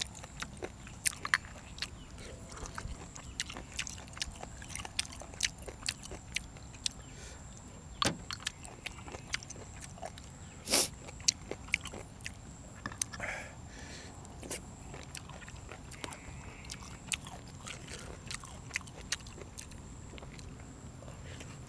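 Close-miked chewing and eating sounds of someone eating boiled apple snails with raw vegetables: irregular small clicks and mouth noises, with a louder click about eleven seconds in.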